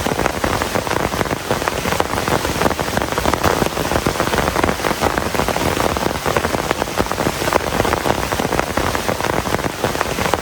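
Heavy rain falling steadily, a dense, continuous patter of countless drops striking surfaces.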